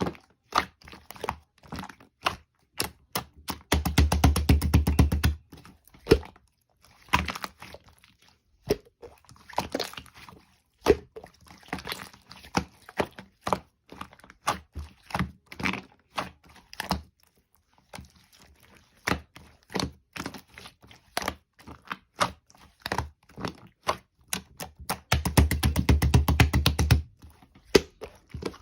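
Slime being worked by hand: a steady stream of sharp clicks and pops as it is pressed and folded, with two runs of very rapid popping, about four seconds in and again near the end.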